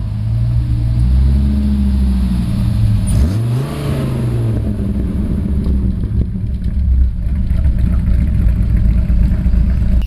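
Dodge Viper GTS's V10 engine running as the car drives past, a deep, loud exhaust note whose pitch dips and climbs again about three seconds in.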